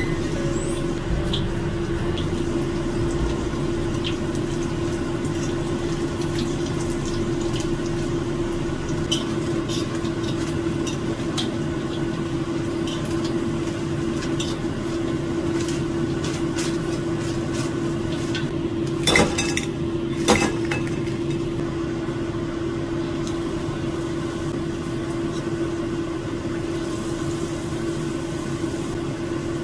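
Battered banana fritters deep-frying in hot oil in a wok, sizzling steadily over a steady hum. A metal fork and wire skimmer tap and scrape against the wok now and then, with two louder clatters about two-thirds of the way through.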